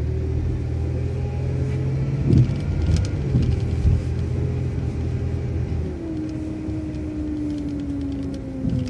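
City transit bus running as it pulls away through the campus, a steady engine and drivetrain hum whose pitch drops about six seconds in. A few knocks and rattles come in the middle.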